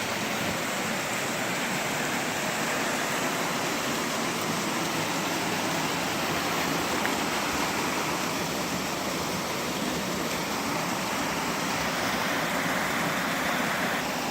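Small creek waterfall: water pouring and splashing in a steady, unbroken rush.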